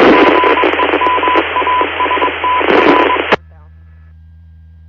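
Police radio scanner transmission: a loud burst of static with garbled, unintelligible voice and a broken, on-off beeping tone, cutting off sharply about three and a half seconds in. A low steady hum remains after it.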